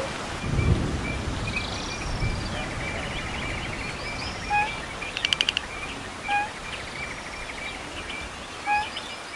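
Outdoor birdsong from several birds: steady chirping, a quick run of clicking notes about five seconds in, and three short, louder calls about two seconds apart in the second half, over a low rumble in the first two seconds.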